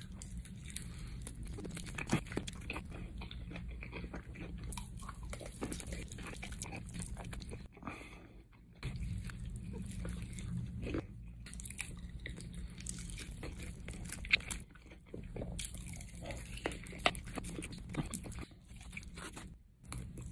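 Close-up biting, crunching and chewing of crunchy fried food, over a steady low hum.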